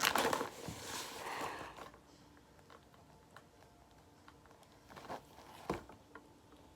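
Handling noise from packing makeup items into a bag: a loud rustle at the start, fainter rustling for a couple of seconds, then a few small clicks and a sharper knock near the end.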